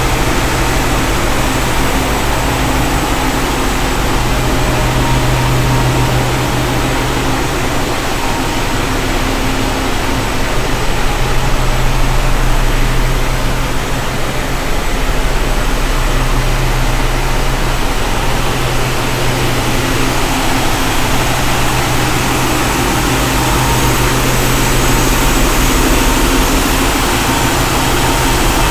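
Passenger ship's engine-room machinery running: a loud, steady drone with a deep hum underneath that holds unchanged throughout.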